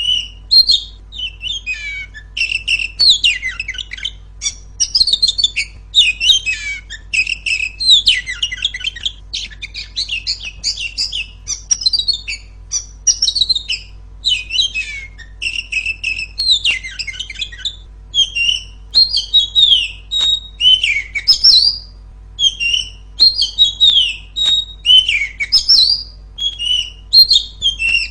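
Female Oriental magpie-robin singing loudly, a continuous run of varied whistles, trills and chattering phrases with brief pauses between them.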